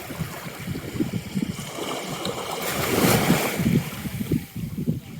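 Wind buffeting the microphone over small waves washing on the shore, with one wave swelling and breaking about three seconds in.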